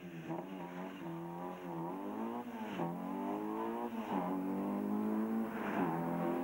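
Opel Kadett C Coupé's engine revving hard through a slalom run, its pitch climbing and dropping back again and again as the driver accelerates and lifts between the cones.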